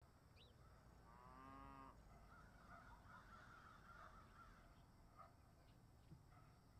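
Near silence: faint outdoor background with a few distant bird calls, one drawn out for nearly a second about a second in, then scattered short calls.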